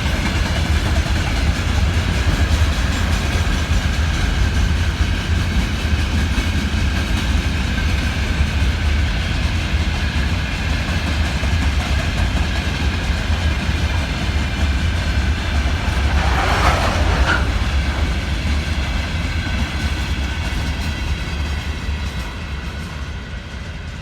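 Freight train wagons rolling past on the rails: a steady heavy rumble with wheel clatter and a brief sharp noise about seventeen seconds in, fading toward the end as the train moves away.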